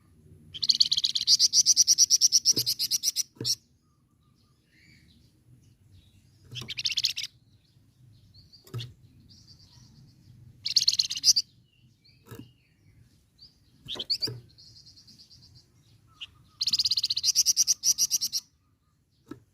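Flamboyan bird singing a rapid, rolling, rattling trill in four high-pitched bursts: a long one near the start, two short ones in the middle and another long one near the end, with short single chirps between them.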